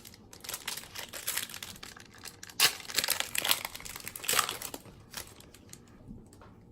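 Baseball cards being handled and flipped through, with crinkly rustling and a few sharper snaps, the sharpest about two and a half seconds in and again a little past four seconds.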